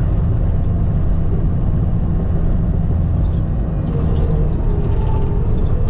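Skid steer engine running steadily under work. A faint rising and falling whine comes in near the end.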